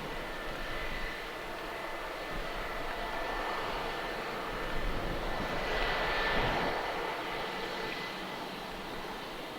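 Jet engines of an Airbus A321-231 (IAE V2500 turbofans) running with a steady rush and a thin high whine, growing louder about six seconds in and then easing off.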